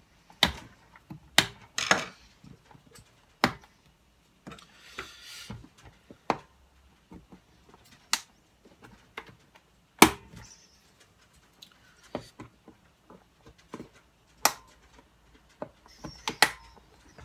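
Irregular sharp clicks and knocks from a portable radio's plastic casing being handled and pried at during a teardown, with a short scraping rustle about five seconds in.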